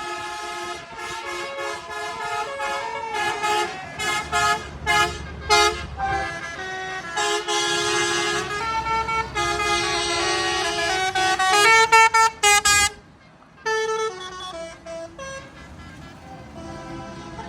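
Vehicle horns tooting over and over, several at once in short blasts and a few longer held blasts, with a brief break near the end.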